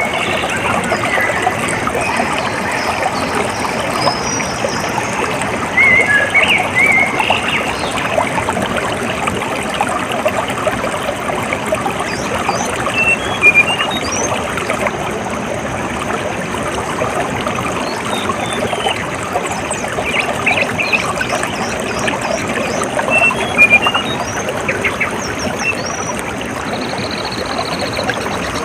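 Water running and trickling steadily, with short, high bird chirps now and then over it.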